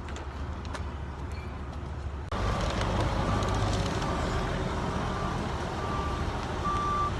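A vehicle's backup alarm beeping over steady engine noise as it reverses. The noise jumps louder about two seconds in, and the beeps start faint and grow louder toward the end.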